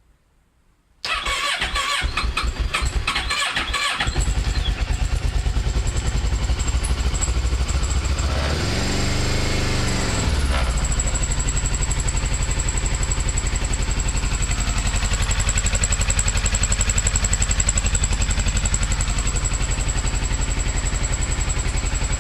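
Kawasaki Versys 650's parallel-twin engine on a cold start at −5.5 °C: the electric starter cranks for about three seconds, then the engine catches and settles into a steady idle. About halfway through it is revved once, its pitch rising and falling.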